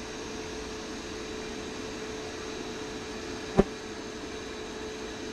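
Bee vacuum running with a steady hum and hiss, sucking bees off the comb. One sharp knock about three and a half seconds in.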